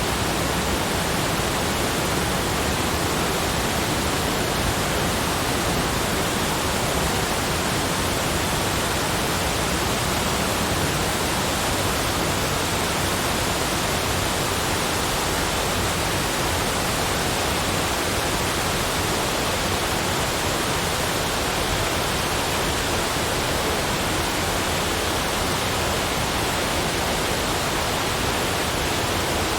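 Steady, even rushing noise that fills every pitch from deep to high, with no separate events or changes.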